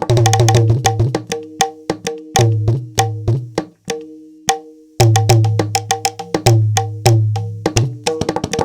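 Sampled Indian percussion from the SwarPlug 4 plugin playing a fast rhythm: sharp, ringing pitched strokes over deep, sustained bass strokes. It breaks off for about a second about four seconds in, then resumes.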